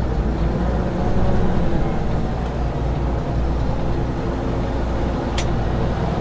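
Truck engine and road noise heard from inside the cab, a steady low drone, with one sharp click about five seconds in.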